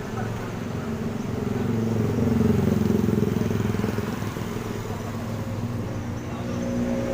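Diesel engine of a large bus running, its revs rising about two seconds in and easing off again, then building once more near the end.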